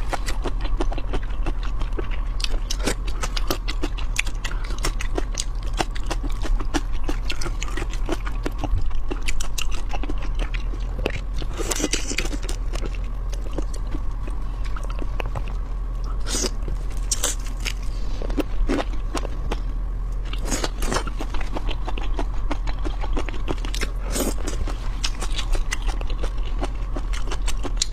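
Close-miked eating of raw seafood: steady wet chewing and biting with mouth smacks, and several louder crunches, over a steady low hum.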